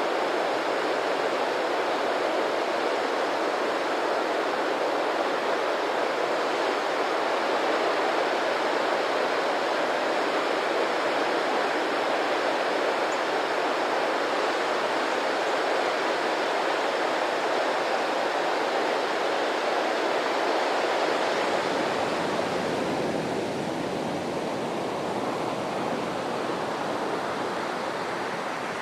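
Steady, even rush of running water, like a waterfall or stream. A little past two-thirds of the way through, the rush changes to a somewhat quieter, lower sound.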